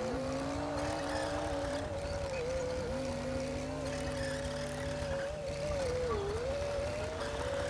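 Komatsu D60P bulldozer's diesel engine running steadily at working revs, its pitch dipping briefly about six seconds in as it takes load.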